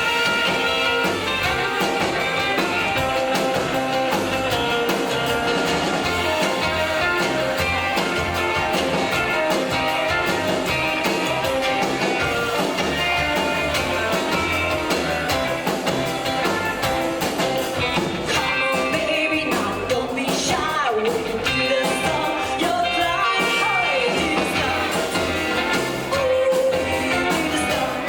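Live rockabilly band playing an uptempo number, with slapped upright bass, drums and electric guitar; guitar notes bend in pitch about two-thirds of the way through.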